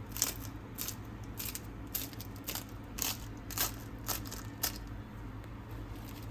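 Crisp, flaky layers of baked cheese börek crunching, a dozen or so irregular sharp crackles over a faint steady low hum.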